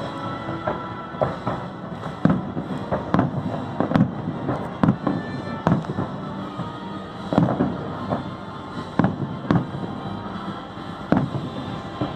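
Fireworks shells bursting in an irregular string of bangs, about one a second, over the show's accompanying music.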